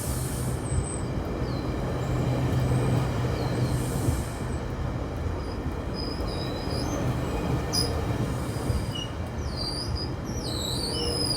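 Train rolling on the rails: a steady rumble with high-pitched wheel squeals here and there, strongest and wavering near the end.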